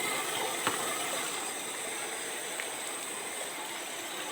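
Steady rushing hiss of flowing water, with a thin high steady whine above it and a sharp click about two-thirds of a second in.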